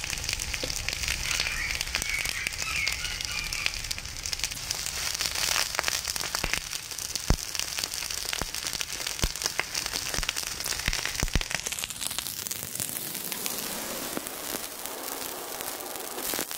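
Zucchini halves frying in hot oil in a non-stick pan: steady sizzling with many scattered sharp pops and crackles.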